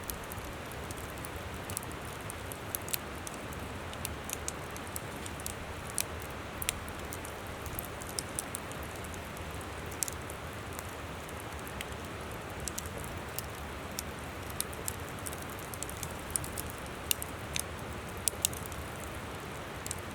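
Wood campfire crackling, with irregular sharp pops and snaps scattered through it, over the steady rush of a flowing river.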